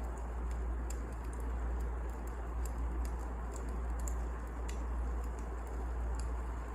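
Wood fire burning: a steady low rumble and hiss with scattered, irregular sharp crackles and pops.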